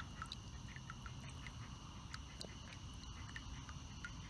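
Evening chorus of crickets and tree frogs: a steady high trill with many short chirps scattered through it.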